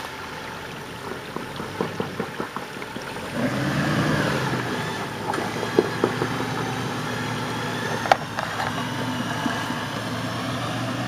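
Jeep Wrangler engine running under load as it crawls up a steep rock climb, rising in revs and getting louder about three and a half seconds in. Two sharp knocks come about six and eight seconds in.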